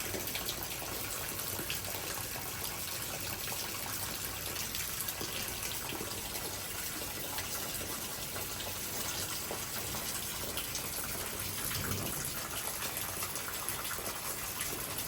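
Heavy thunderstorm rain pouring down steadily, an even hiss with no thunder or other sudden sounds.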